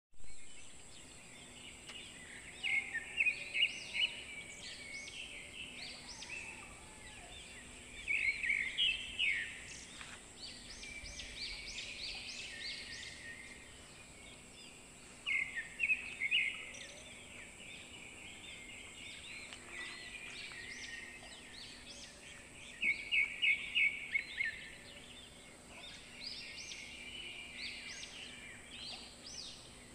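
Birds calling in five bursts of quick, high chirping notes, spread through the stretch, over a steady faint high hiss.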